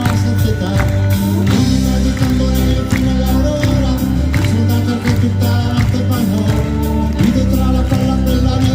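Live band playing an instrumental passage with a steady drum beat and sustained bass and keyboard or guitar lines, with no lead vocal.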